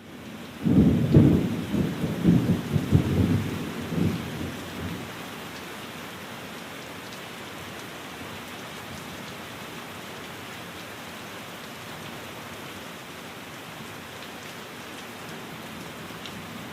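Steady rain falling, with a heavy rumble of thunder rolling through the first few seconds and then fading, leaving the rain alone.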